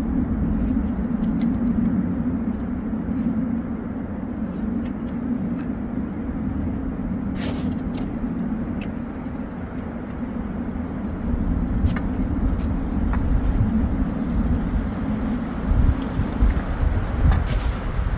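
Kia Sportage on the move: a steady engine and road drone with low rumble and scattered small clicks and knocks, the rumble growing a little louder and rougher near the end.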